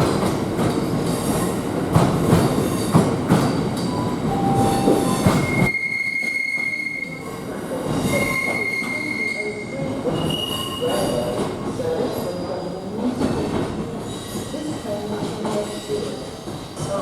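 Train running through, wagons rattling and knocking over the track. About six seconds in the clatter stops abruptly, and wheel flanges squeal in long steady high notes, twice on one pitch and then higher.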